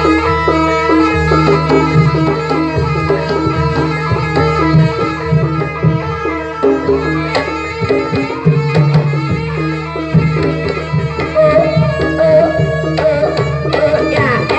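Live Javanese jaranan accompaniment: hand drums played in a quick rhythm over repeating pitched metallophone-style notes and a low held tone. A wavering higher melody line joins about eleven seconds in.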